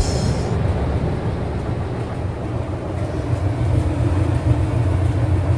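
LG electric clothes dryer running, its drum turning with a steady low rumble.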